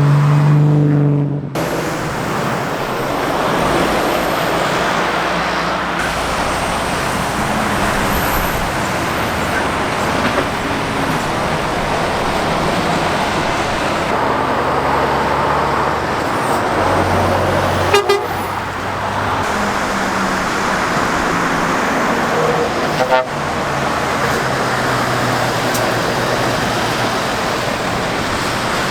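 Lorries and cars passing steadily on a busy main road, with continuous tyre and engine noise. A pitched tone from a vehicle cuts off about a second and a half in, and there are two brief sharp sounds later on.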